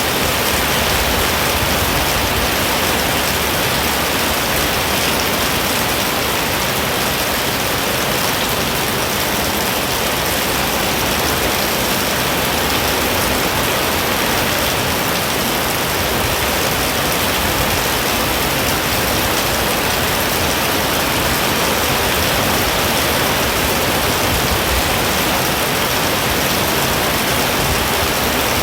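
Heavy rain pouring down steadily, an even unbroken rush of noise.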